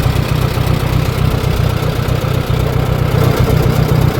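Antique tractor engine running loud and steady, with a low, rapid, even pulsing.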